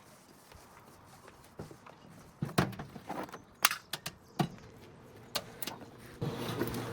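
A quiet stretch of scattered short clicks and knocks, about eight of them, like tools and parts being handled. A louder rustling noise starts shortly before the end.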